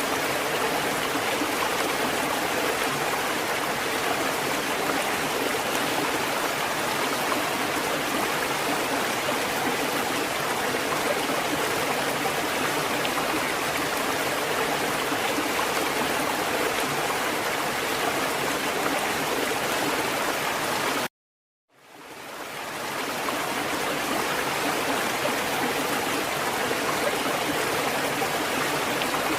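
Water from a fountain running and splashing steadily in an even rush. About 21 seconds in it cuts out completely for under a second, then fades back in over a second or two.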